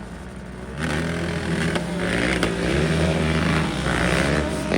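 Monster truck engine revving, its pitch rising and falling in swells, coming in strongly about a second in.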